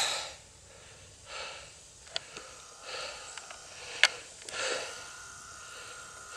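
A man breathing hard, out of breath from cycling: soft puffs about every second and a half. There are a few sharp clicks, the loudest about four seconds in.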